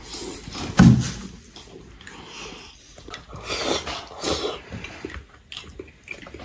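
Close-up mouth sounds of eating soft, hot beef tendon: slurping and chewing in irregular noisy bursts. The loudest burst comes about a second in.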